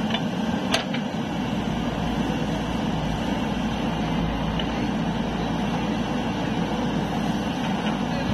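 Steady low mechanical running noise, with two or three sharp clicks in the first second.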